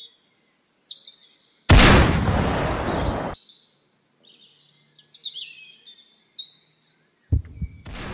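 Birds chirping, broken about two seconds in by a single loud rifle shot that fades out over a second or so; the chirping goes on afterwards, and a rougher burst of noise comes near the end.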